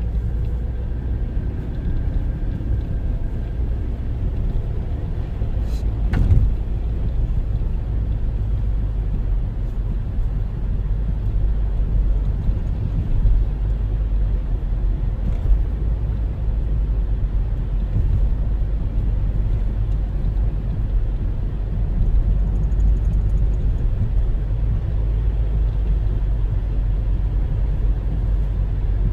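Steady low rumble of road and engine noise inside a moving car's cabin, with a single short knock about six seconds in.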